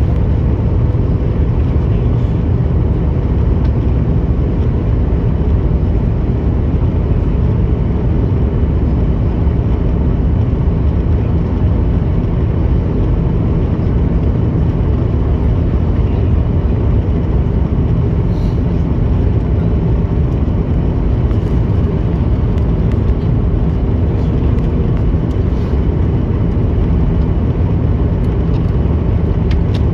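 Steady jet airliner cabin noise, the engines and rushing air heard from inside the passenger cabin during the arrival. It is mostly a deep low rumble with a faint steady tone above it, and does not rise or fall.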